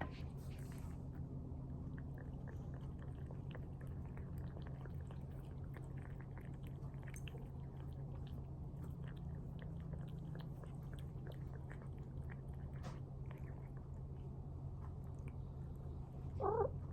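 Cats eating wet tuna from a bowl: soft, wet chewing and licking ticks throughout, with one short meow near the end.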